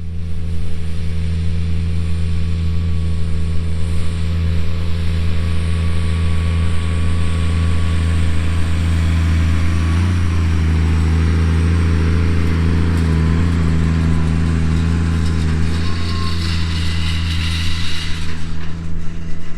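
A 240-horsepower tractor's diesel engine running steadily while pulling a field cultivator: a low, even drone that keeps the same pitch throughout, with a brief tick about ten seconds in.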